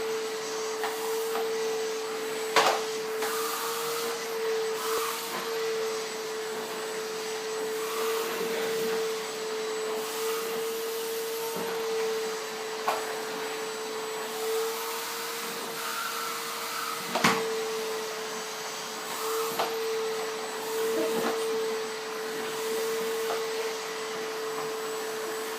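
Vacuum cleaner running steadily, a constant hum with an even whine over rushing air, with a few sharp knocks, the loudest about two and a half seconds in and again near the middle.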